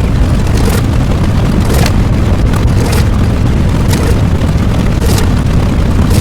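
Loud, heavily distorted rumbling noise like a continuous explosion, with a brighter hissing surge about once a second.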